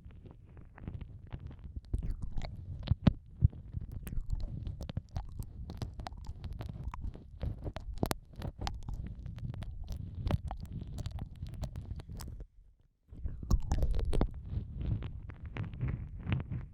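Close-up wet mouth sounds of ear-eating ASMR: licking, smacking and nibbling right against the microphone, with many sharp wet clicks over a low muffled rumble. The sounds break off briefly about twelve seconds in, then resume.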